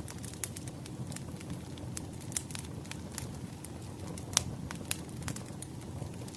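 Wood fire crackling: irregular sharp pops and snaps over a low steady rumble of burning logs, with one louder pop a little over four seconds in.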